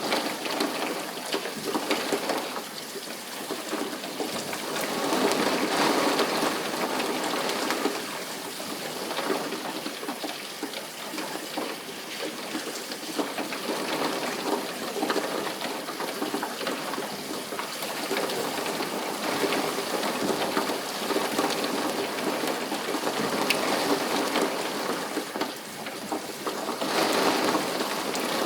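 Steady rain falling, an even hiss that swells louder a couple of times.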